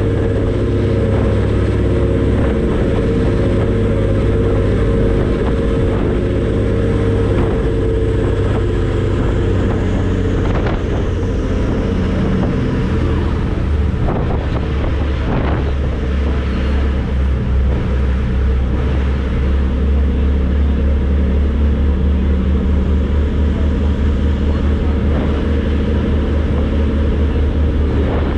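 Passenger ferry's engines running steadily, a deep drone with a rushing noise over it; about halfway through the low hum drops in pitch and grows stronger.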